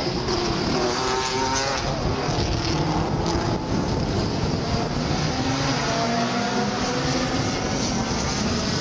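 Two-litre Super Touring (STW) race cars running at racing speed past the track, several engines at high revs, their pitch gliding up and down as they pass.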